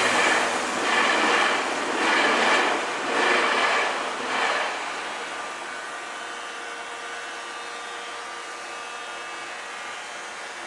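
A Keio Inokashira Line train passing over the level crossing, its wheels rising and falling in loudness about once a second as the cars go by. After about four and a half seconds it falls away to a quieter, steady sound.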